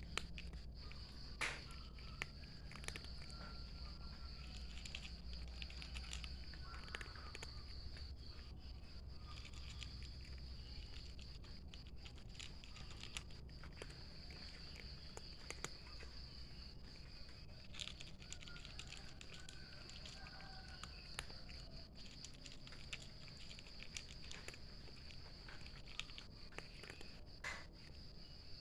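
A cat eating, with scattered small clicks of chewing, over a steady high chirring of insects.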